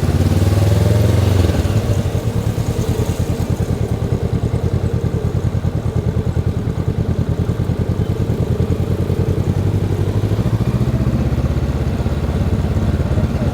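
Honda CB500X's stock 471 cc parallel-twin engine running while the motorcycle is ridden, its exhaust pulsing evenly. It is a little louder for about the first second and a half, then settles to a steady note.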